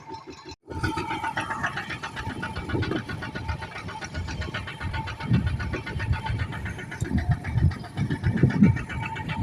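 Engine running with a fast, even knocking beat, its sound dropping out for a moment about half a second in.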